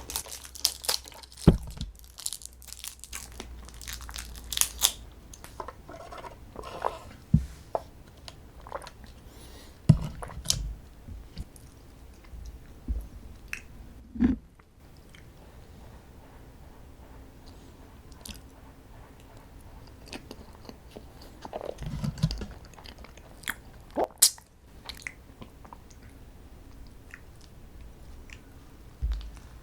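A person biting and chewing strawberry desserts. A quick run of sharp clicks comes in the first few seconds, then scattered softer chewing sounds and clicks, with a quieter spell in the middle.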